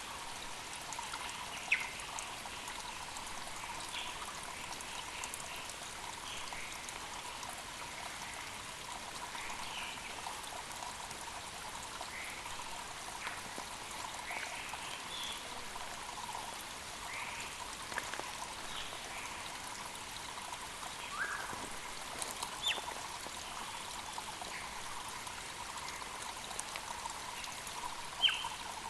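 Mountain creek running steadily, with short bird chirps and calls scattered over it and a couple of sharper calls standing out near the start and end.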